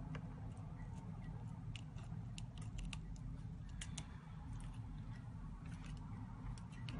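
Small tools clicking and tapping against phone parts during disassembly: irregular, sharp little clicks, several a second at times, over a steady low hum.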